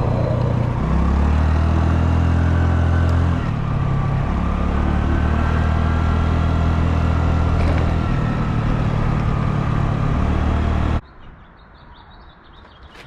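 Honda Navi's small single-cylinder engine running while the bike is ridden, its note stepping up and down with the throttle. About eleven seconds in it cuts off abruptly to a quiet outdoor background with birds chirping.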